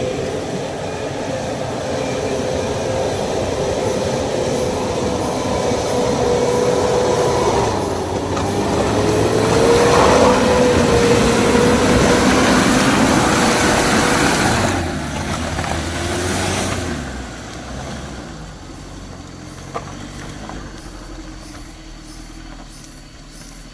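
Mitsubishi L300 pickup driving, its engine running under load with a steady whine over road noise. The sound builds through the middle, drops off sharply about two-thirds of the way through and carries on more quietly.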